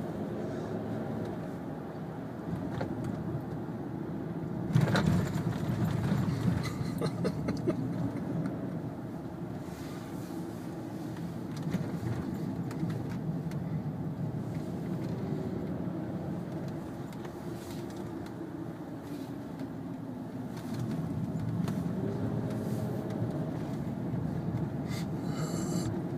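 Kia Sedona minivan driving, heard from inside the cabin: steady road and tyre noise under engine hum that slowly rises and falls in pitch. There is a louder thump about five seconds in and a brief patch of clicking near the end.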